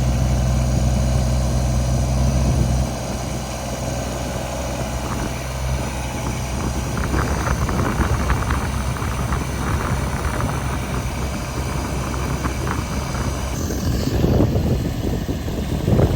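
Compact Kubota tractor's diesel engine running with a steady low hum. About three seconds in the hum drops away and a rougher, noisier sound with scattered crackling takes over.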